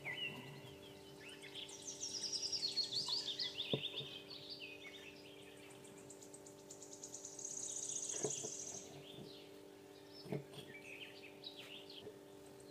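Small birds chirping, with quick descending note series and a buzzy high trill about eight seconds in, over a steady low hum. A few faint clicks from handling wires and parts.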